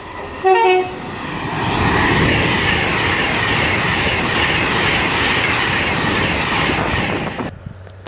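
A train running through the station at speed: a loud steady rush of wheels on rails, cutting off suddenly shortly before the end. It is preceded by a brief horn blast about half a second in.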